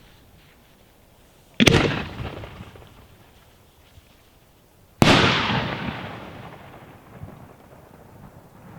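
Two aerial firework shells bursting with loud bangs about three and a half seconds apart. Each bang is followed by an echoing rumble that fades over a couple of seconds.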